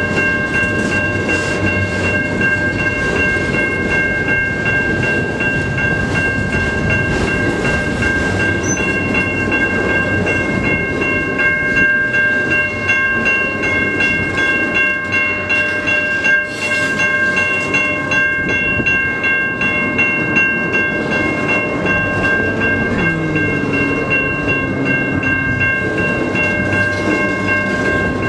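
CN freight train's cars rolling slowly over the crossing, wheels clattering on the rail joints with a steady rumble. A steady high ringing from the crossing signal's bell runs over it.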